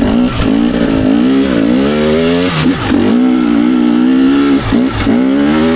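Dirt bike engine revving up and down under the throttle, its pitch rising and falling over and over with several brief drops between pulls.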